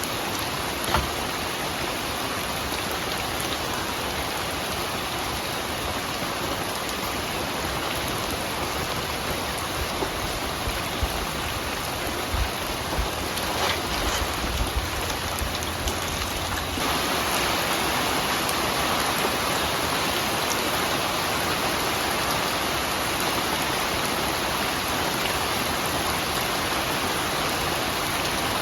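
Steady rain falling, with scattered heavier drops knocking in the middle; a little over halfway through the rain gets louder and stays that way.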